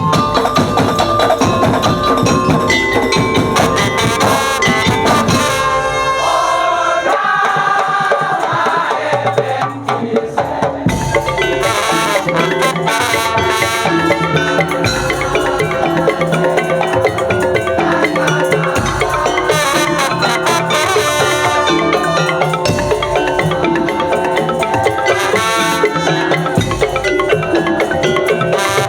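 Percussion-band music: a tune on mallet-struck tuned instruments over wood-block knocks and drums. About seven seconds in the low drums drop out, and a steady beat comes back about four seconds later.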